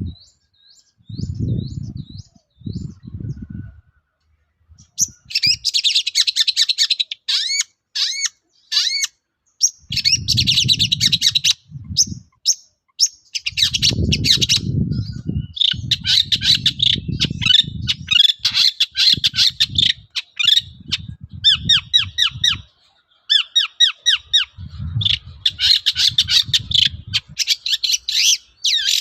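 Long-tailed shrike (cendet) singing: a few short faint chirps, then from about five seconds in a fast, harsh, chattering song of quick high notes in long phrases with brief breaks. Low rumbling noises come and go underneath.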